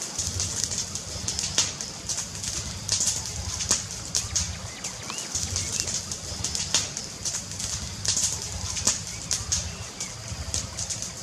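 Fireplace crackling: a dense run of irregular sharp pops and snaps over a low, fluttering rumble.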